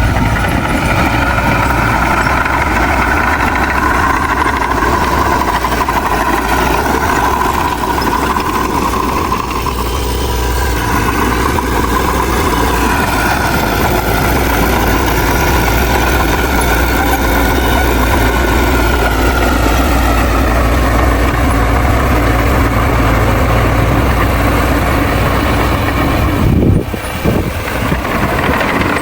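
Heavy diesel engine of earthmoving machinery, a bulldozer or dump truck at work, running steadily with its pitch slowly rising and falling. There is a brief break in the sound near the end.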